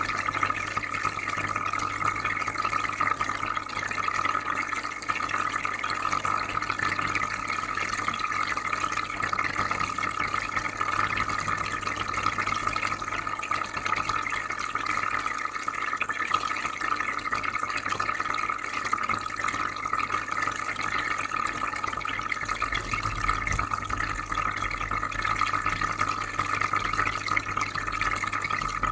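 Aquarium filter running: steady bubbling and trickling water over a low, even hum.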